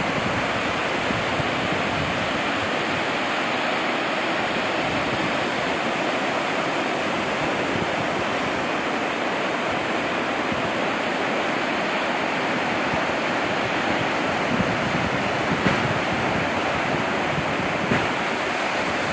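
Steady, unbroken wash of ocean surf and wind on a beach, with a few faint taps in the last few seconds.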